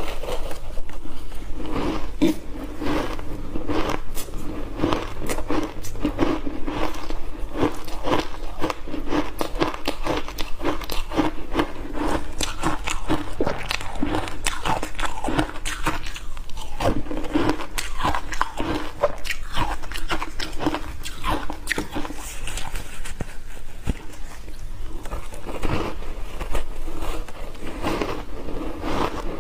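Refrozen block ice being bitten and chewed, a dense run of sharp crunches and cracks in quick succession.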